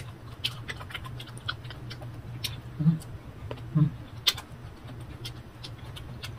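Close-up chewing of crisp unripe green mango: a rapid, irregular run of sharp crunches and mouth clicks, with two short closed-mouth hums about three and four seconds in.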